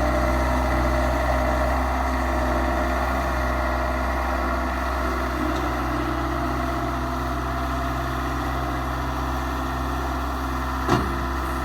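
Bobcat S185 skid steer's diesel engine running steadily, with one short sharp click near the end.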